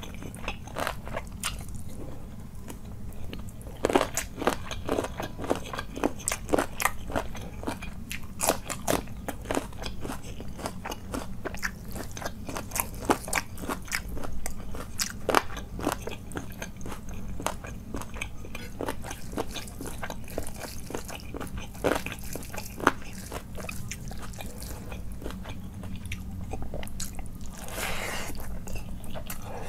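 Close-miked eating by hand of chicken curry and rice: irregular wet chewing and biting clicks, with a longer smacking mouth sound near the end.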